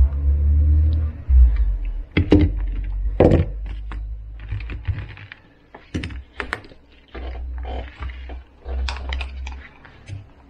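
Hard plastic parts of a stick vacuum being handled, with an irregular run of sharp clicks and knocks and dull low thumps.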